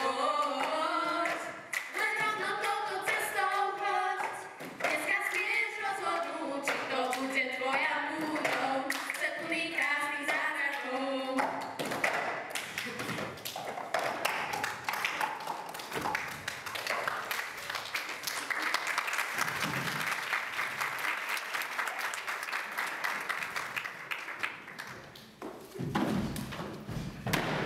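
A song sung on stage ends about twelve seconds in, and an audience applauds, the clapping fading out a couple of seconds before the end.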